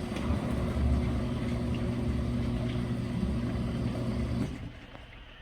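Portable mini washing machine's electric motor running with a steady hum, then stopping about four and a half seconds in.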